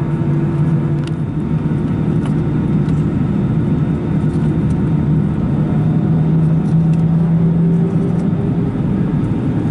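Airbus A319's CFM56 jet engines running steadily, heard inside the passenger cabin as a constant low hum and rush of air, the hum shifting slightly higher in pitch for a moment about two-thirds of the way through.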